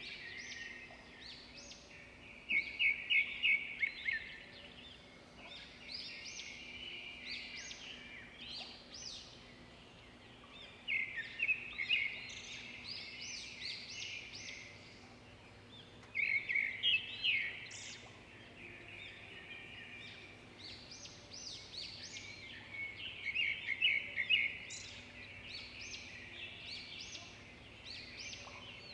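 Swiftlets twittering: high, rapid chirping calls throughout, swelling into louder dense bursts about every five to seven seconds. A faint steady low hum runs underneath.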